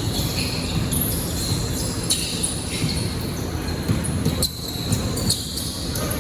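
Basketball game on an indoor court: sneakers squeaking in short high chirps and the ball bouncing, over the steady noise of the hall.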